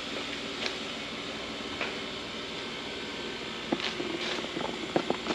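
Steady low hum, with a few brief soft rubbing strokes and, in the second half, a run of light clicks and taps.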